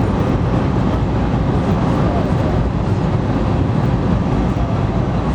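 Cabin noise of a Taiwan High Speed Rail 700T train running at speed through a tunnel: a steady, loud rumble and roar.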